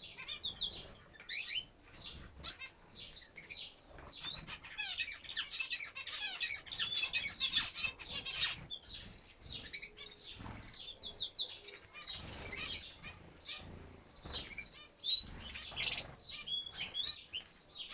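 Canaries chirping and calling in quick, overlapping high notes and short trills, with wings fluttering.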